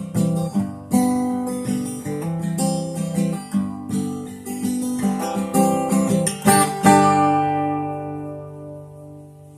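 Acoustic guitar playing the closing bars of a song: a run of picked and strummed notes, then a final chord about seven seconds in that rings out and slowly fades away.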